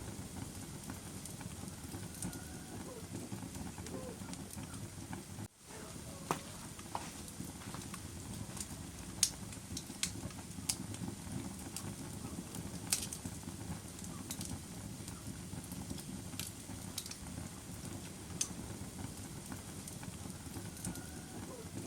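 Campfire burning: a steady low rush of flames with irregular sharp crackles and pops, a few of them louder. The sound drops out for a split second about five seconds in.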